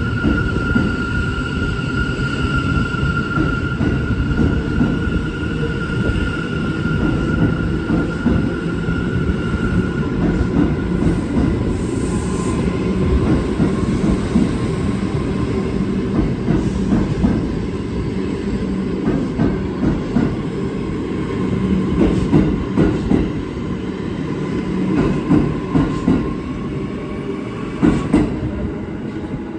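New York City Subway train running through the station: a steady, loud rumble of wheels and motors with a held whine that fades after about ten seconds, and a few sharp knocks from the wheels on the rails later on.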